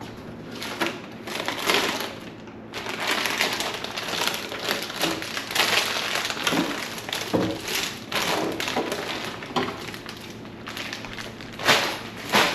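Rustling, crinkling and clattering of containers and packaging being handled while a fridge is cleaned and restocked, with two sharp knocks near the end.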